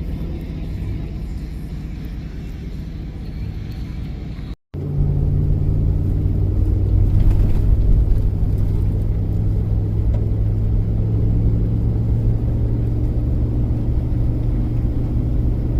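A vehicle towing an RV on the road: steady low engine and road rumble. It breaks off briefly about four and a half seconds in and comes back louder, with a steady engine drone.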